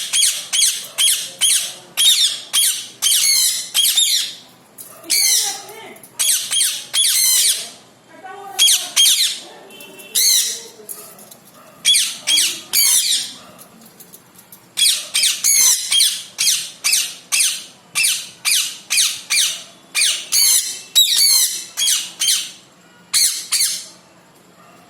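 Parrot screeching over and over in harsh, shrill calls, about two a second, in runs broken by short pauses.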